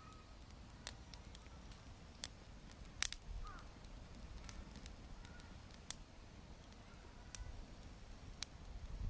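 Wood fire crackling: sharp single pops and snaps at irregular intervals, the loudest about three seconds in, over a low rumble. Faint short bird calls sound in the background.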